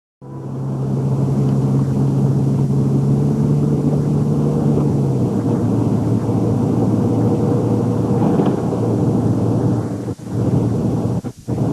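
A car being driven: a steady, loud rumble of engine and road noise with a low hum that drops away about five seconds in. It starts abruptly and briefly cuts out twice near the end.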